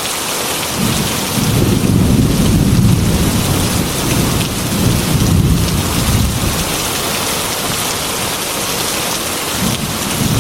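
Heavy rain beating steadily on a glass window, with a long low rumble of thunder that rolls in about a second in, swells twice and dies away about three quarters of the way through.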